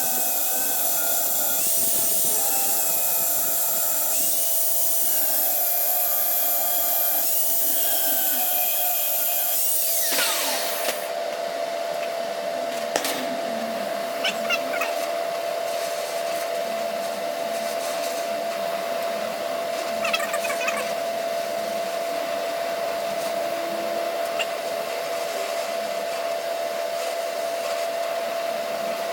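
Angle grinder with a grinding pad cutting into scrap metal, its pitch dipping as it bites. About ten seconds in it is switched off and winds down. A steady hum with a few scattered ticks follows.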